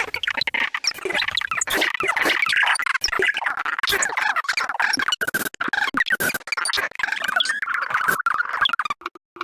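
Short recorded bird calls triggered in rapid succession from a touch-screen bird-sound database, forming a dense, choppy collage of chirps and squawks that breaks off briefly near the end.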